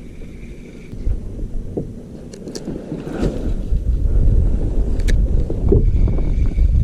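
Wind buffeting the microphone on an open kayak, a low rumble that grows louder about four seconds in, with a few light clicks and knocks around the middle.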